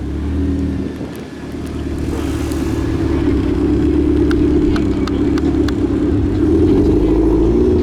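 A car's engine running with a low rumble, dipping about a second in and then growing steadily louder over several seconds, with a few faint ticks.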